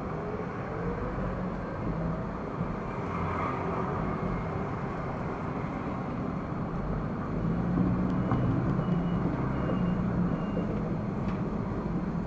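Car driving in city traffic, recorded by a dashcam: steady engine and road noise that grows a little louder about seven and a half seconds in. Four or five short, high beeps sound between about eight and ten and a half seconds.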